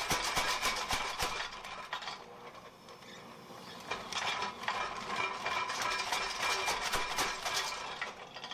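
Home-built power hammer striking a hot steel bar in quick runs of blows, several a second, with a metallic ring. The blows stop at about a second and a half in, then start again about two seconds later and run until near the end.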